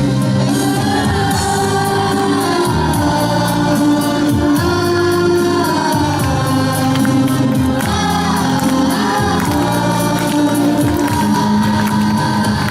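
A children's choir singing a patriotic song over a backing track with a steady beat, holding long sung notes without clear words.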